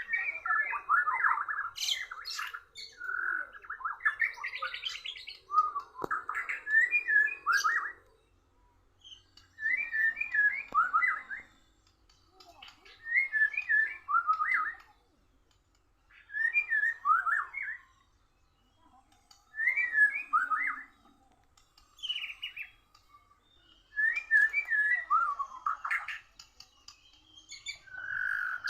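Murai (white-rumped shama) songbirds singing against each other. The song is dense and unbroken for the first few seconds, then comes in short phrases about every three to four seconds, with pauses between.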